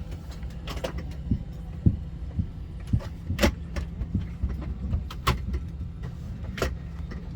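Airbus A320 cabin at the gate: a steady low hum of the cabin air supply, with scattered sharp clicks and knocks from passengers settling during boarding, about six over a few seconds.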